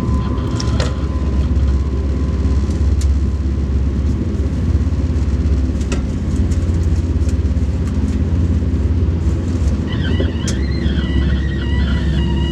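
Alfa Pendular Pendolino tilting train running: a steady low rumble with occasional short clicks, and a wavering high whine joining near the end.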